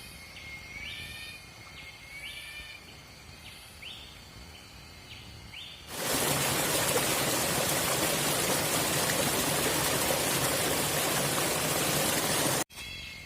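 Night animals calling in a steady series of short, rising chirps, about one a second. About six seconds in, a loud, steady rushing noise takes over and then cuts off suddenly near the end, where the chirping returns.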